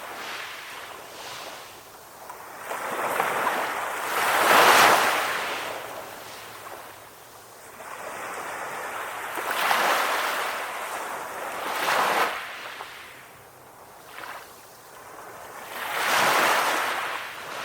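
Gentle ocean waves washing onto a shore, each swell of surf rising and falling away every few seconds, with the loudest wash about five seconds in.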